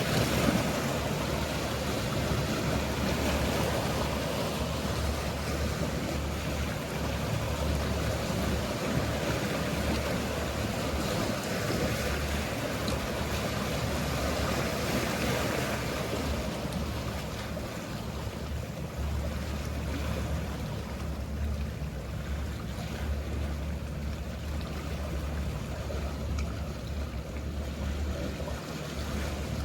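Mediterranean sea waves washing steadily, with the low hum of passing motor boats and yachts underneath. The wash eases a little about halfway through.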